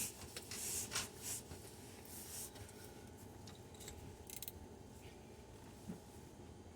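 Faint scrapes and light clicks of hand tools being handled, a few in the first couple of seconds and a couple more near the middle.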